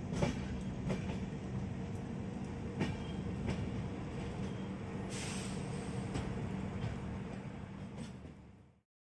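Passenger train running, heard from aboard: a steady rumble and hum with scattered sharp clicks of the wheels over rail joints and a brief hiss about halfway through. The sound fades out near the end.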